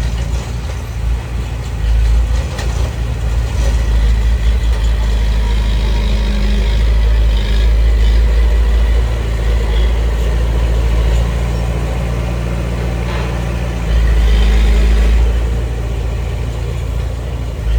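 Heavy diesel earthmoving machine engine running steadily with a deep rumble, working harder and louder about two seconds in and again briefly near fourteen seconds.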